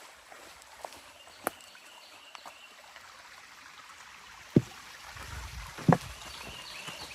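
A hiker's footsteps on the trail: faint scattered steps over a steady hiss, then two loud thumps about a second and a half apart, followed by a low rumble.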